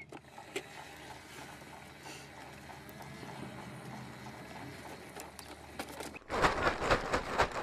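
A faint steady low hum with a few light clicks, then about six seconds in a sudden loud stretch of rapid knocking and clattering.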